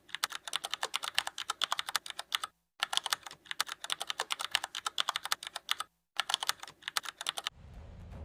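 Rapid computer-keyboard typing clicks, many a second, in three runs broken by two brief dead silences. Near the end a low rumble swells in.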